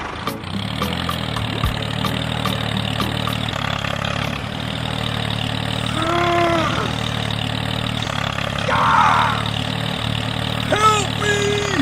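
A small engine or motor running steadily, as on a scale-model mini tractor. Two short pitched calls cut in over it, about six seconds in and near the end, and there is a brief rasping burst around nine seconds.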